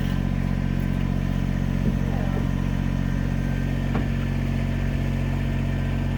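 Engine idling steadily with a low, even hum, with a couple of faint metallic clanks about two and four seconds in.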